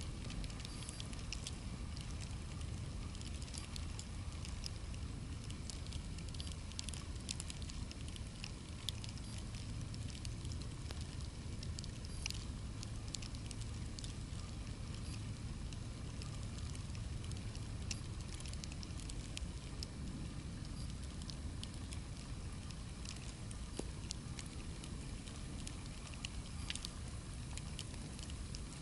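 Low wind rumble on the microphone with irregular crackling patter and ticks throughout, in a snowstorm.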